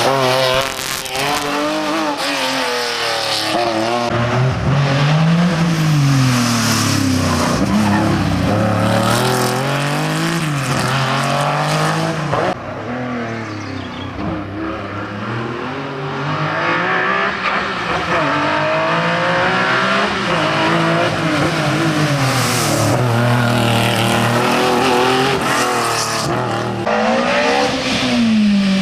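Historic rally car engine revving hard on a special stage, its pitch climbing and dropping again every few seconds through gear changes and corners. The sound dulls and quietens briefly about halfway through.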